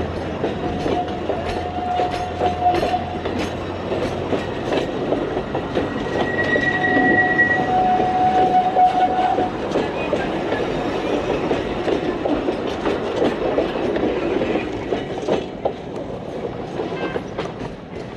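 Alishan Forest Railway train running on its narrow-gauge track, wheels clacking steadily over the rail joints. Two long, steady, high-pitched tones ring out, about a second in and again about six seconds in, and the train fades near the end.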